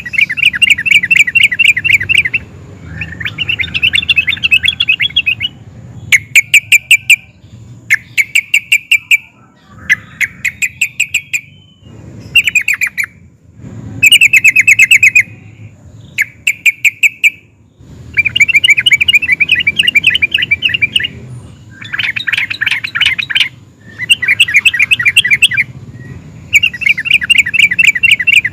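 Yellow-vented bulbul (trucukan) singing: loud bubbly phrases of rapid, rolling notes, each a second or two long, one after another with short pauses between.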